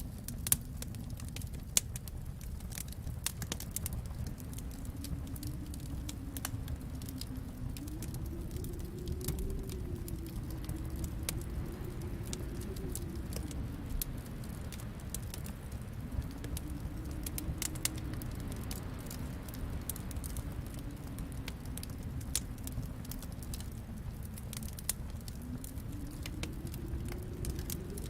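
Wood fire crackling and popping with irregular sharp snaps, over a low rumble and a howling wind whose moan slowly rises and falls.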